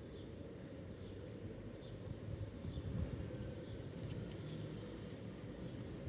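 Pigeons feeding: many light pecking and scuffling taps on the ground, with faint short chirps from small birds over a low rumble.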